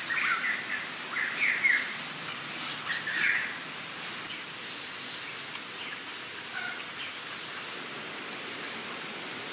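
Birds chirping in short repeated calls through the first three seconds or so, with one faint call later, over a steady outdoor hiss.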